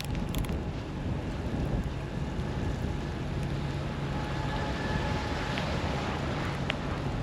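Snowstorm street ambience: wind noise on the microphone over a low, steady mechanical hum, with a faint held tone about halfway through and a few brief clicks.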